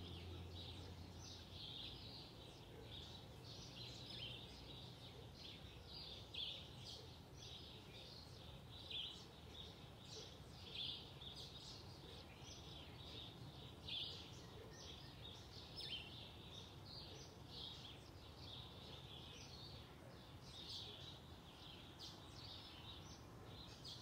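Faint dawn chorus of small birds chirping and calling in the trees, many short, irregular calls overlapping, over a low steady hum.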